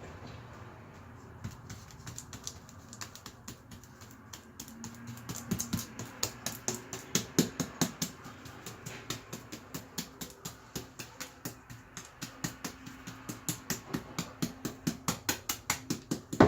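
A brush loaded with drywall joint compound being dabbed against a wall to raise a crow's foot texture: a run of quick, wet taps, sparse at first, then steady at about three a second.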